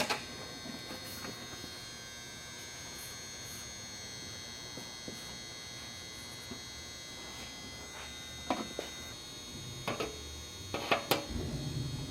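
Steady electrical hum with a high whine, broken by a few sharp metallic clicks and taps, mostly in the second half; a deeper hum swells up near the end.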